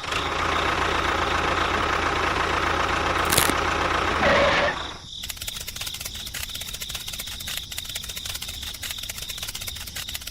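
A motor runs steadily for about five seconds and cuts off suddenly, leaving a quieter fast ticking or rattling.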